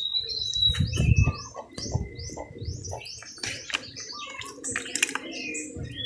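Small birds chirping in many quick, short notes, with a thin high whistled note near the start and again near the end. A louder low rustling rumble comes about a second in.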